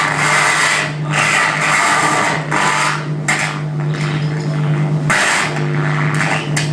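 Loud live noise music: a steady low drone held under harsh, scraping, grinding noise that cuts out for a moment a few times.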